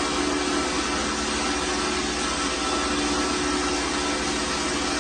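Steady machine noise, a hiss with a constant hum and whine, holding level throughout.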